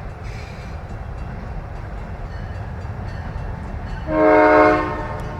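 A train horn sounds one short blast about four seconds in, several tones at once, over a steady low rumble.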